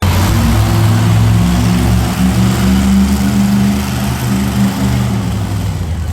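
Monster truck engine running loud and steady with a deep, low pitch, with a wide rushing noise over it.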